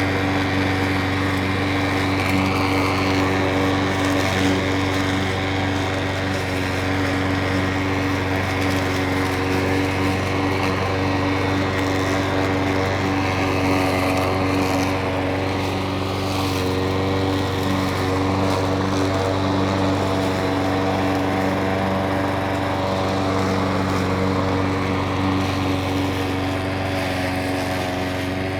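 Petrol lawn mower engine running at a steady speed, a constant hum with no change in pitch.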